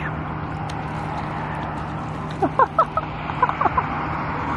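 Steady background noise with a low hum. From about halfway in, birds give a quick series of short calls, several a second.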